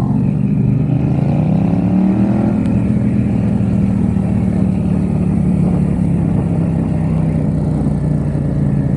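Yamaha XSR700's parallel-twin engine breathing through an aftermarket MiVV exhaust, pulling up in revs for about two seconds and then running at a steady cruise.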